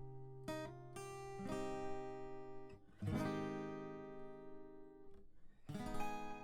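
Background music: acoustic guitar chords strummed and left to ring, struck a few times in the first second and a half, again about three seconds in and near the end.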